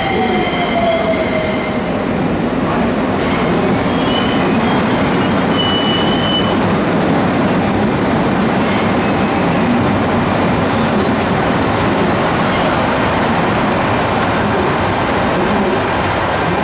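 Passenger train rolling along a station track, a steady loud rumble of wheels on rail. Brief high wheel squeals come a few seconds in and again near the end.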